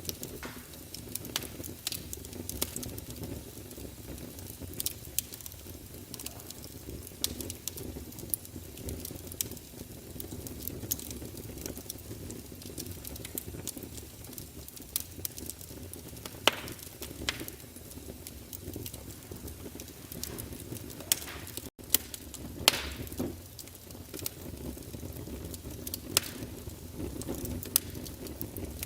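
Fireplace fire crackling: irregular sharp pops and snaps over a low steady rumble, with a few louder pops about 16, 21, 23 and 26 seconds in.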